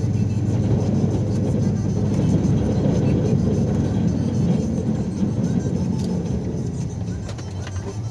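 Engine of a snow-plowing vehicle running steadily with a low, even drone that eases off slightly near the end.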